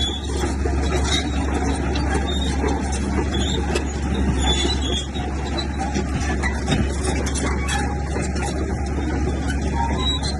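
Bulldozer's heavy diesel engine running steadily under load, with scattered clanks and clatter over it.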